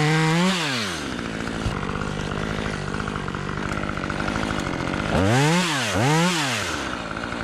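Gas chainsaw dropping from high revs to idle about half a second in, idling steadily, then blipped twice in quick succession a little past five seconds in before settling back to idle.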